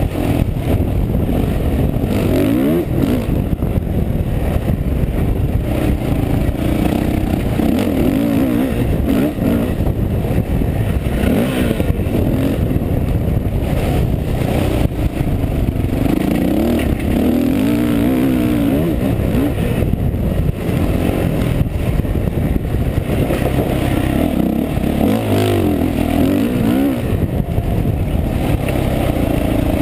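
Yamaha YZ450F motocross bike's single-cylinder four-stroke engine running hard, heard close up from onboard. Its pitch rises and falls again and again as the rider accelerates and backs off.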